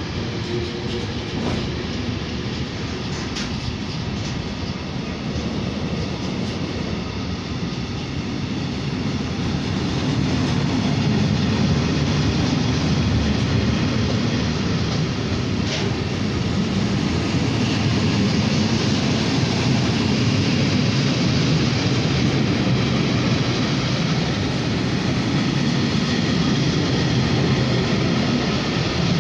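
Container freight train's wagons rolling past close by: a steady noise of steel wheels on rail that grows louder about ten seconds in.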